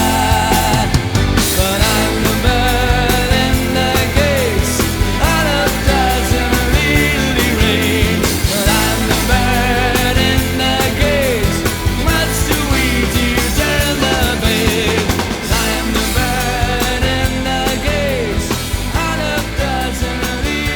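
Pop-rock band playing an instrumental passage with a steady beat, bass, and a lead line with sliding notes, getting slightly quieter near the end.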